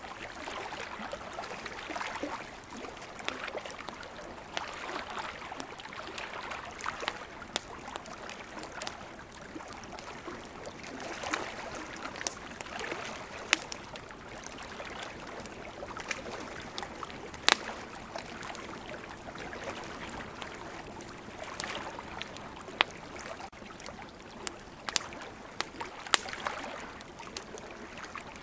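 Campfire crackling with scattered sharp pops, over ocean waves washing in and out in slow surges.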